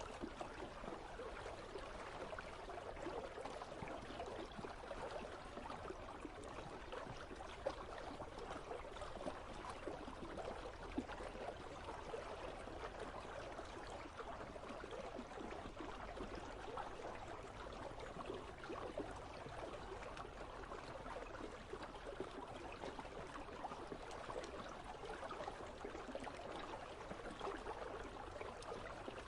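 Icy river flowing steadily: a continuous rush of babbling water.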